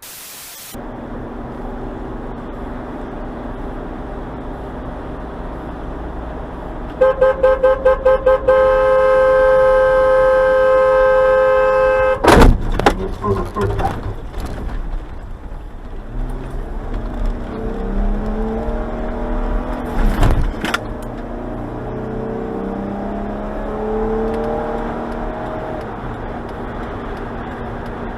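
Car horn honked about eight times in quick succession, then held for several seconds, over road and engine noise. Then a loud crash with a few smaller knocks after it, and a second heavy bang several seconds later.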